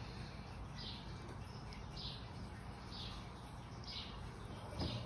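A bird chirping: a short high call repeated about once a second, faint, over a steady low hum.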